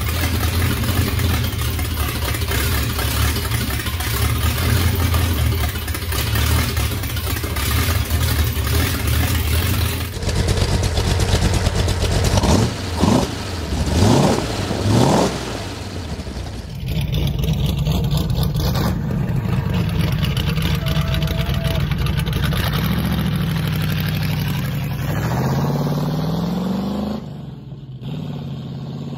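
Ford flathead V8 engine running, heard in several edited clips: a steady run, then a few quick revs about halfway through, then a steady run whose pitch drops away near the end.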